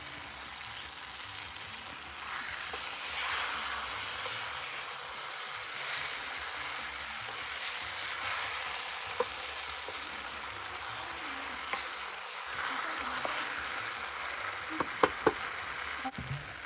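Green banana pieces frying in hot oil in a metal pan: a steady sizzle that swells as they are stirred with a wooden spoon. A few sharp knocks near the end.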